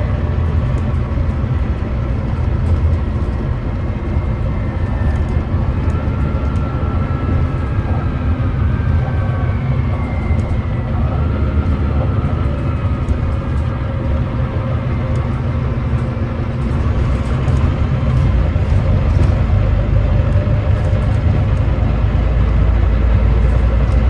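Volvo D9B 9.3-litre diesel engine of a Volvo B9TL double-decker bus running under way, heard from on board: a steady, heavy rumble. A faint whine slides up and down in pitch in the first half, and the engine grows a little louder in the last third.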